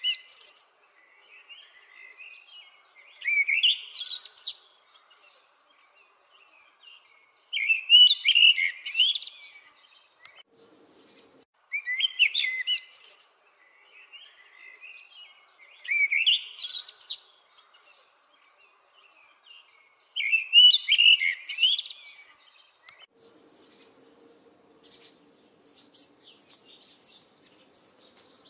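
Birdsong: a bird sings a short chirping phrase about every four seconds. About 23 seconds in, quicker, higher chirping takes over, with a faint steady low tone under it.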